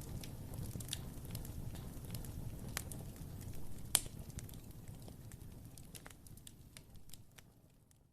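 Wood fire crackling in a fireplace: a low steady rumble of flames with scattered sharp pops, the loudest about four seconds in, fading out near the end.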